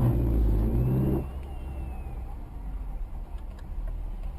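Car engine pulling hard for about the first second, then steadier engine and road noise.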